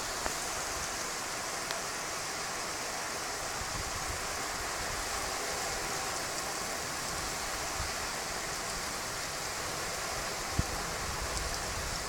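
Heavy downpour: the steady hiss of rain pouring down during a thunderstorm, with a single sharp knock about ten and a half seconds in.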